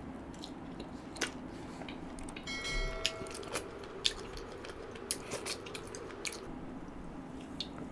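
Close-miked wet chewing and biting of butter chicken, with scattered sharp smacking mouth clicks. About two and a half seconds in, a short bell-like ding sounds.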